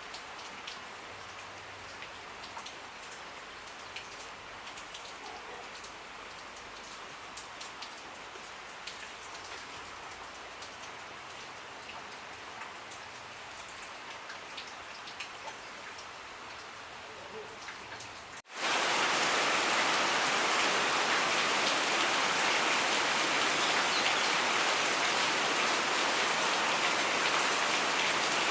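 Rain falling, with single drops ticking clearly over a steady hiss. About two-thirds of the way through it cuts abruptly to a much louder, heavier, steady downpour.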